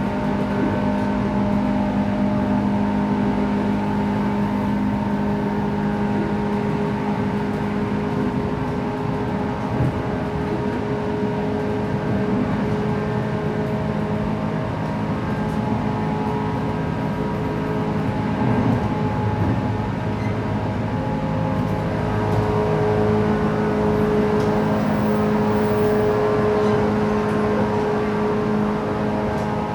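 Running sound inside a JR West 117 series electric train at speed: a steady hum of traction motors and gearing over rumbling wheels and rails. Its tones shift slightly about two-thirds of the way through.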